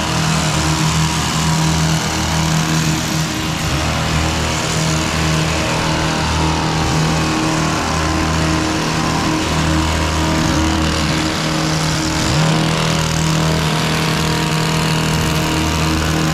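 An engine running steadily at an even speed, with a constant hum and a brief wobble in pitch about twelve seconds in.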